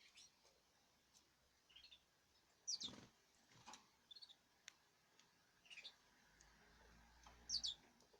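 Small caged birds giving short, faint chirps every second or so, with a few light clicks in between; the loudest calls come about three seconds in and again near the end.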